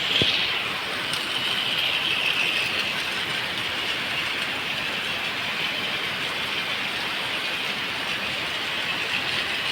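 Battery-powered plastic toy train locomotive running around its plastic track, a steady mechanical noise without a break.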